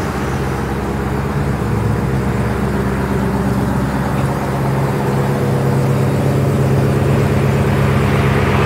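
Dodge Challenger SRT Demon 170's supercharged 6.2-litre Hemi V8 idling steadily as the car rolls slowly down the car-carrier ramp, growing slightly louder.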